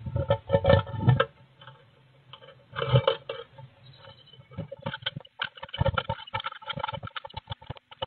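Blue tit moving about inside a wooden nest box: flurries of wing flutter and claws scrabbling on the wood as it comes in, then rapid small taps and scratches as it hops around the floor with nesting material. It has a tinny, boxy sound.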